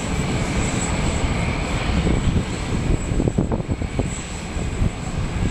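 Jet engines of the Boeing 747 Shuttle Carrier Aircraft, carrying Space Shuttle Endeavour, as it flies low past the runway: a loud, steady rumble.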